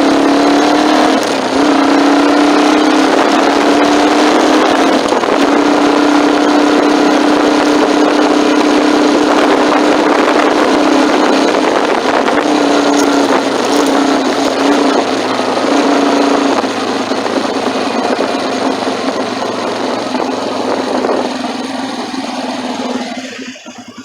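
Motorcycle engine running at a steady note while riding, with wind and road noise, heard from a phone in a handlebar mount. The engine note fades after about 17 seconds, and the sound drops off sharply near the end.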